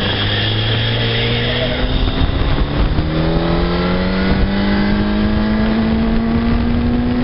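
Sport motorcycle engine pulling hard under acceleration. Its note changes about two seconds in and then climbs steadily in pitch as speed builds. Wind rush runs under it.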